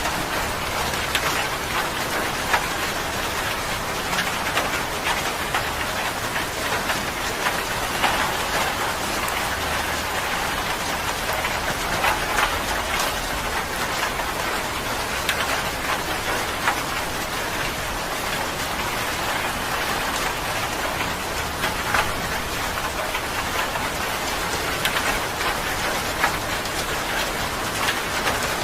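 Steady rain falling, a dense hiss with many fine drop ticks pattering on a surface.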